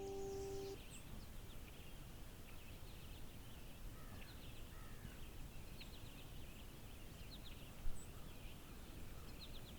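A banjo's last chord rings and cuts off under a second in, leaving a faint background of small birds chirping over a low hum.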